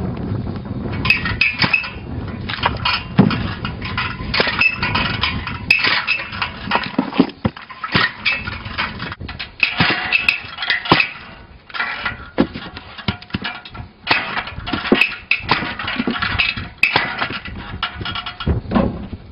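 Firewood-splitting machine at work: irregular metallic clanks and sharp knocks, many strikes over the whole stretch, some with a brief metallic ring.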